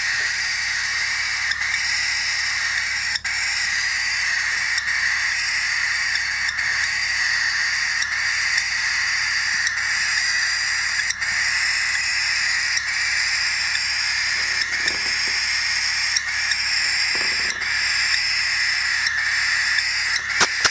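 Cockatiel chicks giving a steady raspy hissing begging call that hardly varies.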